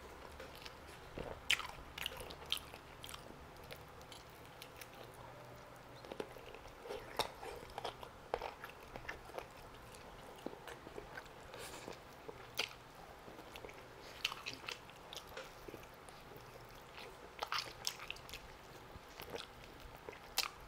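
Close-miked eating of grilled chicken drumsticks: irregular bites, chewing and lip smacks, with a few crisp crunches from the charred skin.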